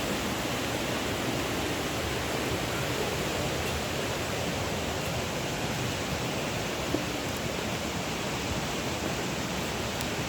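Rushing water of a rain-swollen stream: a steady, even noise of fast-flowing water.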